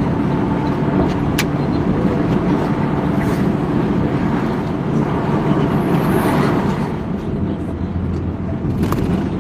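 Road traffic with a heavy vehicle's engine running steadily over constant road noise, easing a little about seven seconds in.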